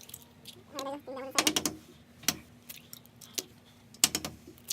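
Sharp clicks and knocks of small objects being handled and set down, in scattered clusters, with a brief bit of voice about a second in.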